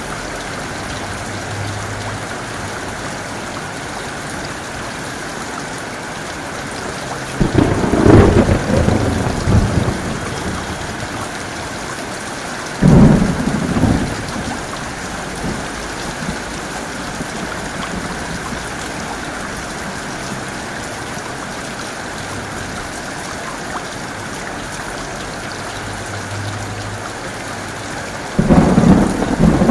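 Steady heavy rain with three sudden thunderclaps: a rumbling one lasting a couple of seconds about a quarter of the way in, a shorter crack a few seconds later, and another breaking near the end.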